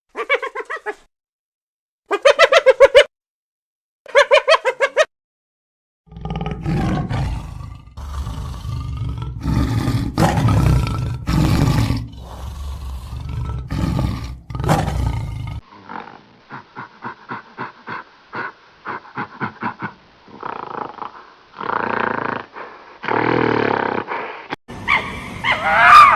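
A string of separate animal calls. The longest is a deep roaring growl lasting about ten seconds, starting about six seconds in, with shorter pulsing calls before and after it.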